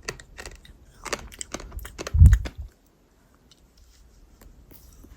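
Crunchy chewing and biting: a quick run of crisp crackling crunches, then a heavy low thump about two seconds in, followed by a brief lull with only faint crunching.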